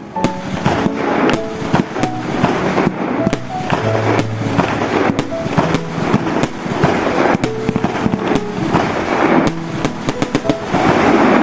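Fireworks going off: a rapid run of sharp bangs and crackling pops throughout, with music playing underneath.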